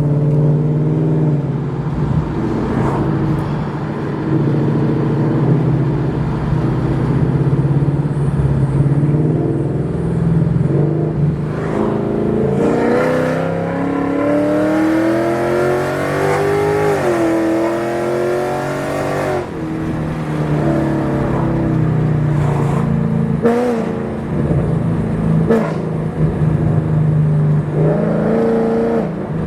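2021 Mustang GT's 5.0-litre V8 with aftermarket headers and exhaust, running steadily on the move. About twelve seconds in it revs up in a rising pitch for several seconds as it accelerates, then eases back to a steady drone.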